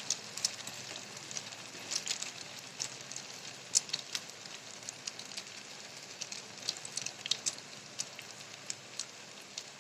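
Potato-and-egg adai batter frying in hot oil in a kadai: a steady sizzle with scattered crackles and pops.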